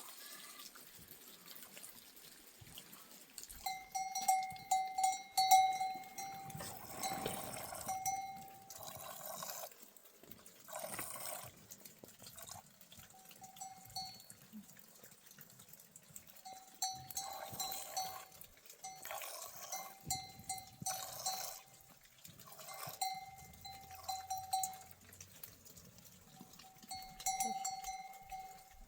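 Livestock bell ringing on and off as the animals move, in held stretches of a few seconds, with short rustling bursts in between.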